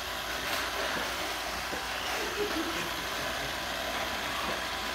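Roomba robot vacuum running: a steady machine noise of its motor and brushes.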